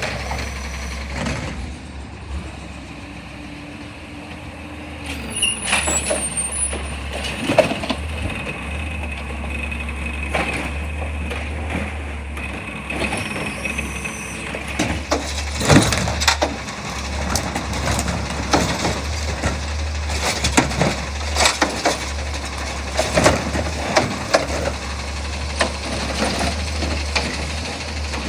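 Garbage truck engine running steadily, with repeated knocks and clanks through its work and a short high hiss of air about five seconds in.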